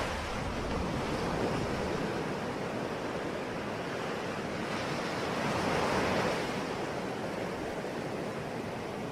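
Ocean surf: waves washing continuously onto a shore, a steady rushing that swells a little about six seconds in.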